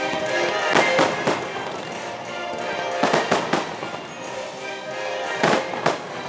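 Fireworks bursting in clusters of sharp bangs, about a second in, around three seconds and twice near the end, over the fireworks show's music soundtrack played from loudspeakers.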